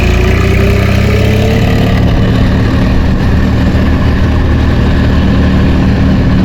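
Tractor engine running steadily with an even low hum, with a slight rise in pitch in the first couple of seconds.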